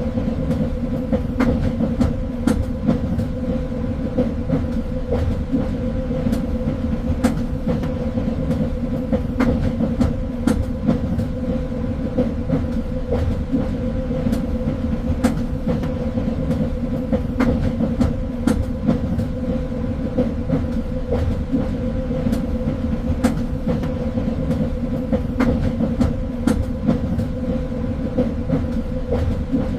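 Train running on the rails: a steady low rumble with a constant hum and scattered sharp clicks throughout.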